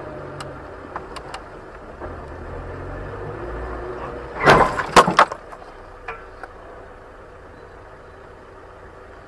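Car collision: steady road noise, then a loud burst of crunching impacts in quick succession about four and a half seconds in, dying away after about a second.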